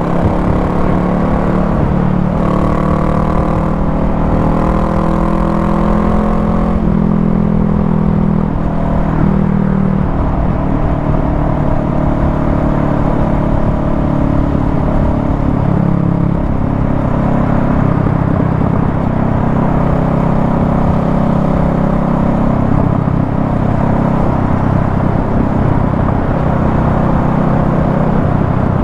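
Honda Rebel 500's parallel-twin engine running at road speed, with wind and road noise. The engine note climbs in pitch over the first several seconds as it accelerates, then holds fairly steady.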